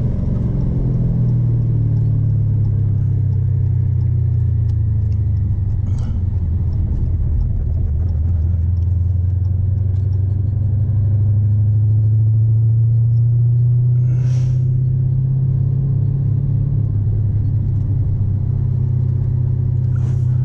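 A car engine running at a steady low speed: a deep, even drone whose pitch rises slightly about halfway through, with a few faint clicks.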